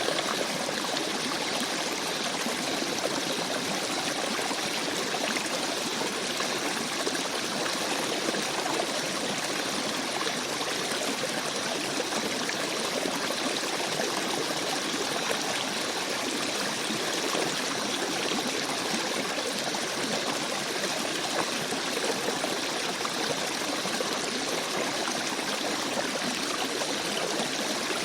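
Small forest stream babbling and rolling over rocks in a steady, unbroken rush of water.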